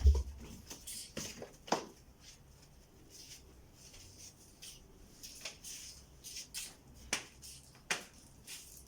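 Irregular light clicks and taps, with a dull thump at the start and a few sharper clicks spread through.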